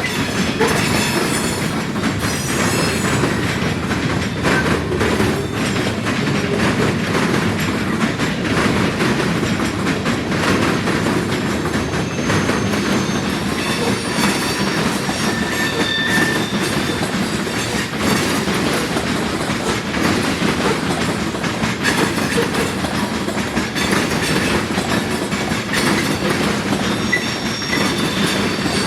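Freight cars of a long Norfolk Southern train rolling across a railroad diamond crossing, wheels clacking steadily over the crossing, with brief high wheel squeals near the start and about halfway.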